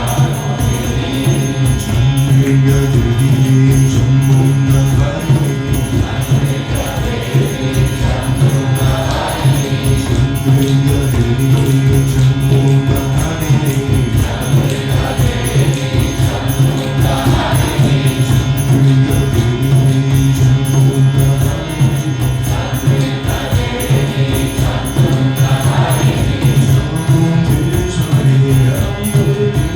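Kirtan: voices chanting a mantra over a steady low drone, with hand percussion keeping an even beat.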